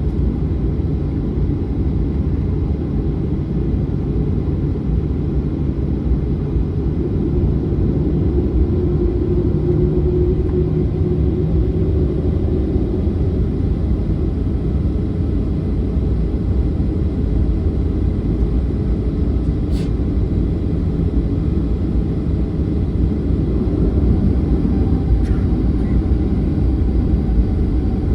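Boeing 737-900's CFM56-7B jet engines running with a steady low rumble.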